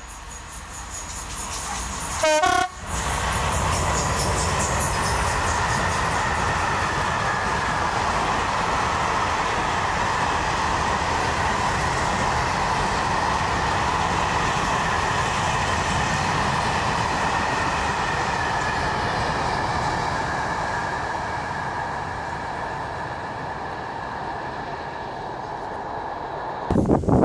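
A train going by: a short horn blast about two seconds in, then the steady rumble and rush of the passing train, which eases off after about twenty seconds.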